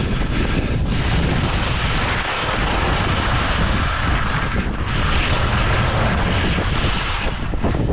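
Strong wind buffeting the microphone: a loud, steady rush with a low rumble underneath and a hiss that eases briefly about a second in and again near five seconds.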